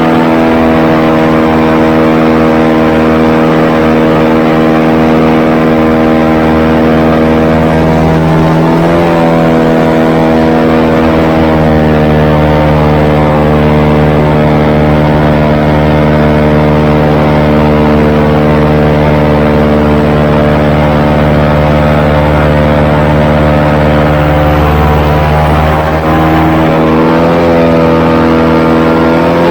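Airboat's engine and propeller running loud and steady. The pitch rises briefly about nine seconds in and again near the end as the engine speeds up.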